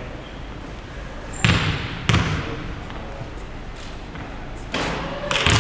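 A basketball bouncing on the court, four separate thuds in two pairs, with a brief high squeak near the first bounce.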